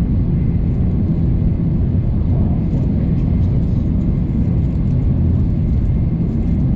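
Steady low rumble of a Shinkansen bullet train's passenger cabin while the train runs.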